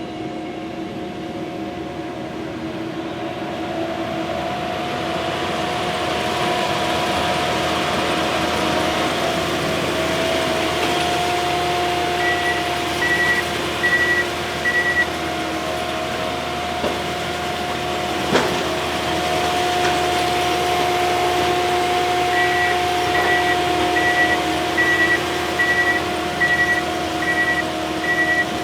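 Heavy earthmoving machine's engine running steadily under load, with its reversing alarm beeping about one and a half times a second: a short run of four beeps around the middle and a longer run near the end.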